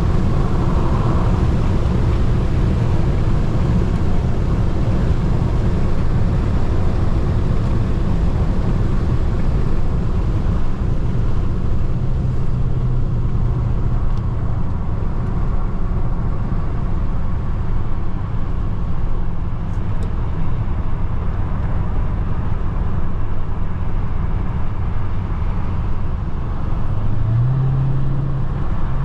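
Dodge Hellcat Redeye's supercharged V8 engine and road noise while driving, a steady low rumble. The engine note steps up briefly near the end.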